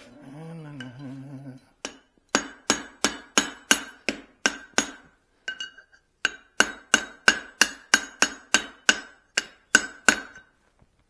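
Blacksmith's hand hammer striking the hot steel of a cross peen hammer head on the anvil, about three blows a second, each with a bright ring. Two runs of blows, about eight then about a dozen, with a short pause between them.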